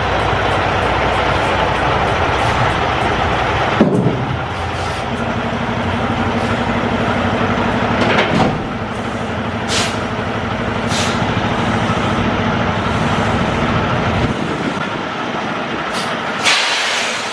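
Semi truck running, with two sharp knocks about four and eight seconds in and several short hisses of air later on. The low engine rumble drops away about fourteen seconds in.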